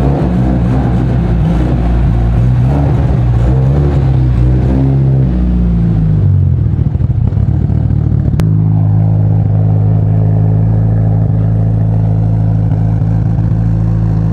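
Mitsubishi Lancer Evolution VIII's turbocharged four-cylinder engine running. Its pitch wavers, then sinks about five seconds in. After an abrupt change about eight seconds in, it holds a steady note.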